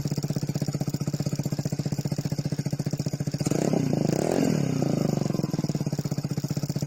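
Vespa Primavera 125's single-cylinder engine idling through a Remus full exhaust with an even, pulsing beat. About three and a half seconds in, a short rev rises and falls back to idle.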